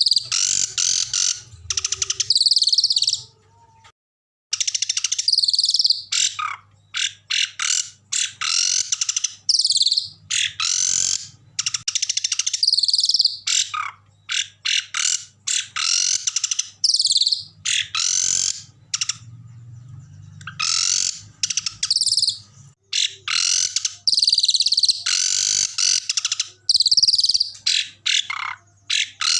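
Small songbird singing in quick, harsh bursts of high chattering and trilling phrases, separated by short gaps. It is a masteran song recording, and there is a faint low hum underneath.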